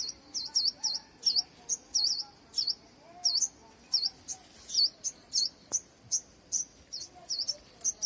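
A small bird chirping, one high, sharp note over and over at about two to three a second, each note a quick down-and-up sweep.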